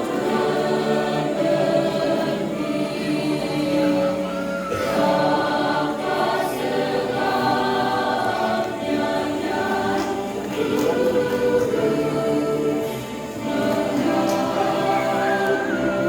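Church choir singing a hymn in several voice parts, holding each chord for a second or so before moving to the next.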